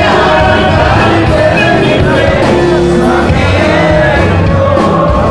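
Live norteño band playing a song with a sung vocal over accordion and a steady beat.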